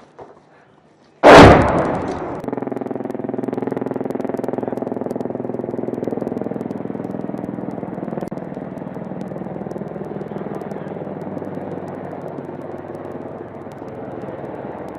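A single loud blast about a second in that dies away over about a second, then the steady drone of an AH-64 Apache helicopter's engines and rotor.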